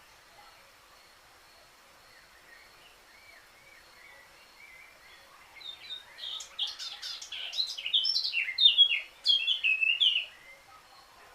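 Eurasian blackcap singing: a quiet, low warble for several seconds, then a loud run of rapid whistled phrases lasting about five seconds that stops shortly before the end.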